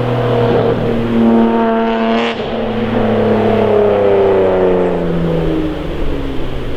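Toyota JZX90 Mark II's 1JZ-GTE twin-turbo straight-six on an aftermarket dual exhaust, revs climbing under throttle. About two seconds in the throttle is lifted with a brief hiss, and the engine revs then fall steadily.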